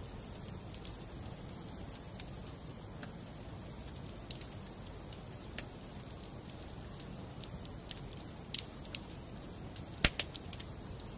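Wood fire burning in a fireplace: a steady low rustle of flames with scattered sharp crackles and pops of burning wood, the loudest pop about ten seconds in.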